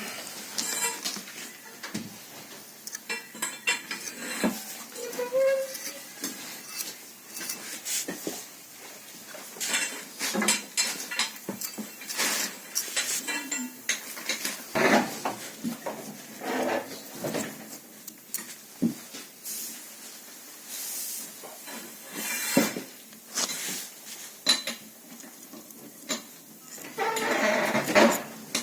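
Metal parts and hand tools clinking, knocking and scraping against each other in scattered, irregular strokes, with a longer rattle near the end.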